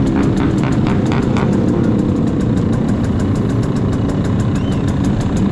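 Motorcycle engine idling steadily at low revs.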